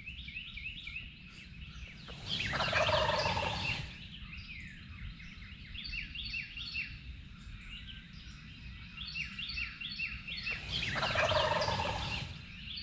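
A wild turkey gobbling twice, each gobble a loud rattling call of about a second and a half. The first comes about two seconds in and the second near the end, with small birds chirping throughout.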